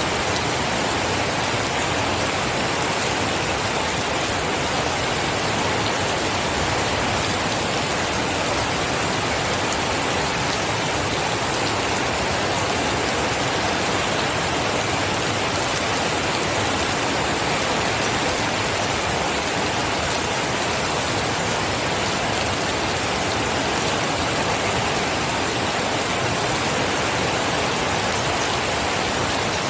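Steady rain falling, an even, unbroken hiss with scattered drop ticks.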